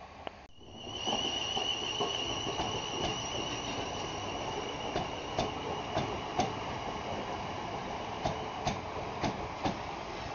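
South West Trains Class 450 Desiro electric multiple unit moving slowly along the platform: a steady high-pitched whine over a rumble, with repeated wheel knocks over the rail joints. The sound starts about half a second in.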